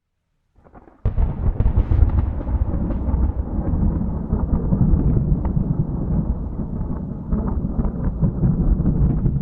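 Thunder: after a second of near silence, a sudden crack of thunder followed by a long, low rumble with scattered crackles, without rain.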